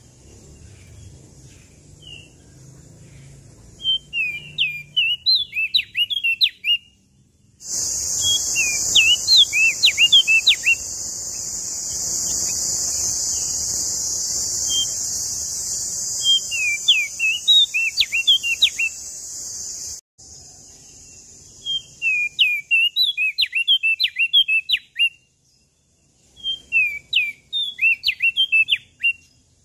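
A leaf warbler (prenjak daun) sings five phrases of rapid, sharp, high chirps, each phrase two to three seconds long with short pauses between. From about eight to twenty seconds in, a loud steady high-pitched hiss runs under the song and then cuts off suddenly.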